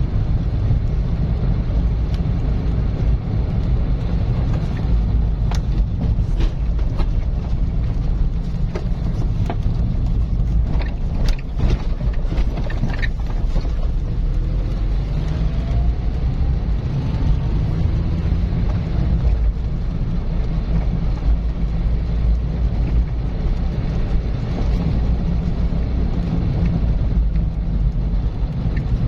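Car driving steadily along a road: a constant low rumble of engine and tyre noise. A few light clicks come between about five and thirteen seconds in, and a faint rising tone follows in the middle.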